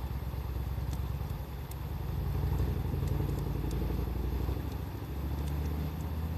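A steady low rumble, shifting slightly in pitch about halfway through, with a wood campfire crackling faintly over it in scattered small pops.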